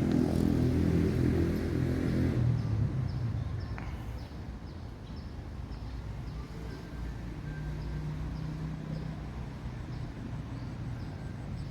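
A motor vehicle's engine passing close and fading away over the first three seconds or so. After that, a quieter background with a faint high chirp repeating about twice a second.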